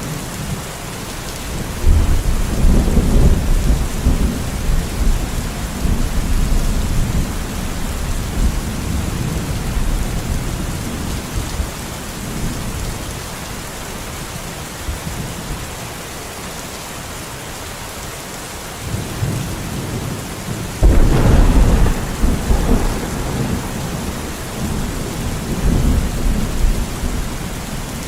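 Steady rain with thunder: a roll of thunder breaks about two seconds in and rumbles on for several seconds, and a second one starts suddenly about three quarters of the way through.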